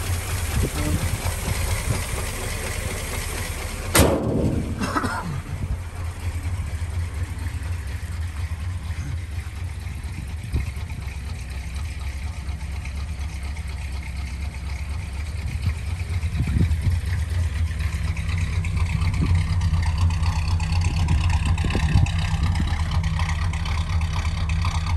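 1959 Plymouth Suburban's 318 'poly' V8 idling steadily through its noisy single exhaust, getting a little louder over the last third. A single loud bang about four seconds in.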